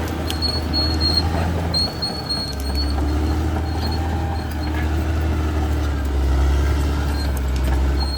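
Caterpillar D6R XL bulldozer's diesel engine running steadily, dipping briefly about two seconds in and picking up again, with short high squeaks and clicks over it.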